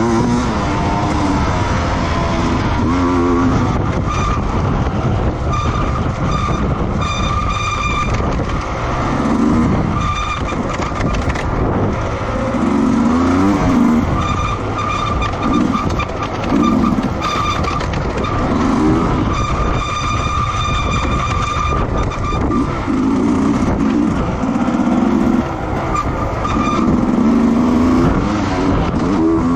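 Racing motorcycle engines revving hard as machines pass one after another, each swelling in pitch and level and then falling away.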